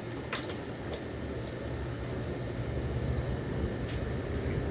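Small electronics cooling fan from a UPS running steadily with a low hum and no rattle, its bearing freshly lubricated with spray vaseline. A brief click sounds just after the start.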